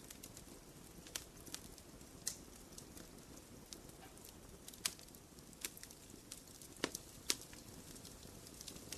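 Wood fire in a fireplace crackling, with irregular sharp pops and snaps over a soft steady low rush; the loudest pops come about five and seven seconds in.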